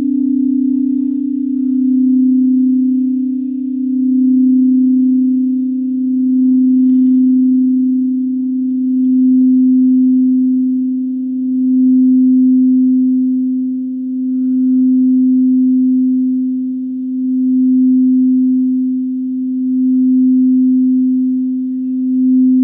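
A singing bowl held on one steady low tone, its loudness swelling and fading about every two seconds as the bowl is kept sounding.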